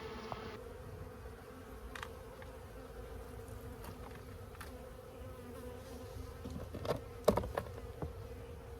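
Honeybees from an opened colony buzzing in a steady hum, with a few short knocks over it, the loudest about seven seconds in.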